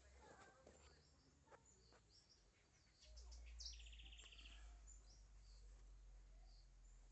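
Faint birdsong: short high chirps scattered throughout, with one short buzzy trill a little past the middle, over a low rumble that grows louder about three seconds in.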